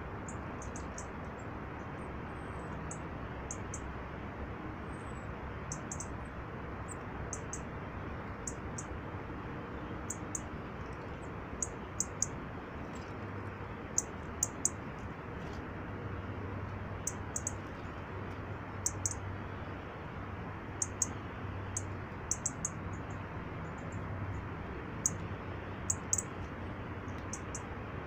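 Small wild birds giving short, high-pitched calls, singly and in quick runs of two or three, repeated again and again over a steady background hiss.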